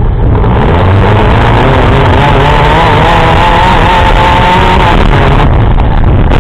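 Compact demolition derby car's engine running hard, loud and distorted, its open exhaust stack rising through the hood beside the microphone. A wavering higher engine whine rises over the running for a few seconds in the middle, then drops away.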